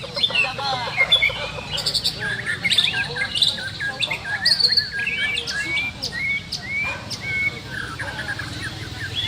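Several white-rumped shamas singing at once: a dense, overlapping run of varied whistled phrases with quick rising and falling notes.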